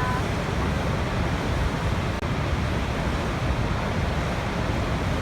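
Waterfall: a steady rush of falling water, deep and even, with a momentary dip in level about two seconds in.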